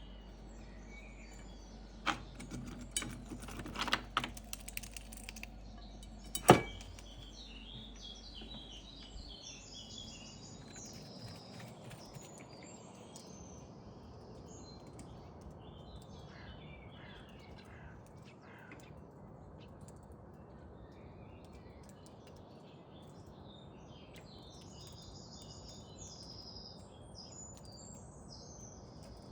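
Small birds chirping again and again, with a cluster of clicks and knocks a couple of seconds in that ends in one sharp, loud knock.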